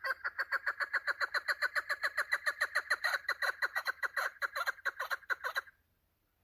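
Female chukar partridge (chakor) calling: a rapid, even run of short notes, each sliding downward, about nine a second, that stops abruptly near the end.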